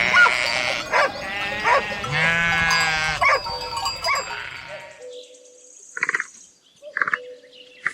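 Sheep bleating, with one long, wavering bleat about two seconds in over a busy, noisy background. About five seconds in the sound drops away to faint, short calls.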